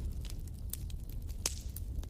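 Wood fire crackling in a fireplace: irregular sharp pops and snaps, the loudest about one and a half seconds in, over a steady low rumble of the flames.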